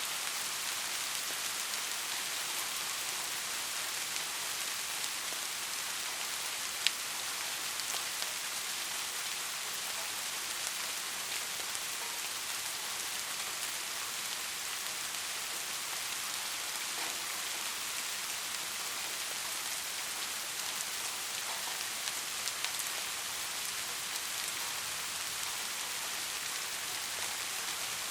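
Steady rain falling, a continuous hiss with scattered drop ticks and one sharper drip about seven seconds in.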